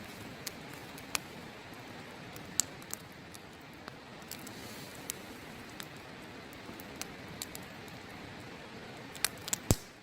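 Wood fire crackling: sharp single pops scattered every half second or so, with a quick run of louder pops near the end, over the steady rush of a river.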